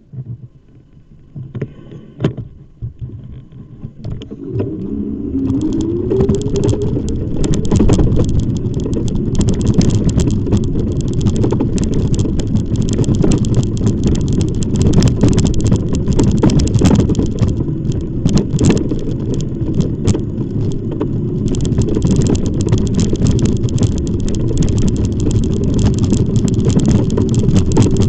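E-bike in motion: steady rumble of tyres and wind on the microphone with frequent rattling clicks, building up over the first few seconds as the bike gets going.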